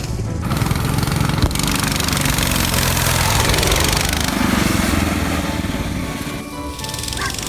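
Mini bike engines running, coming in loud about half a second in and easing off briefly near the end.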